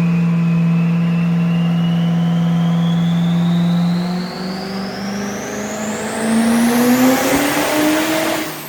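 Diesel truck making a pull on a chassis dyno: the engine holds a steady loud note for about four seconds, then climbs in revs with a rising turbo whistle, and drops off abruptly near the end as the pull ends.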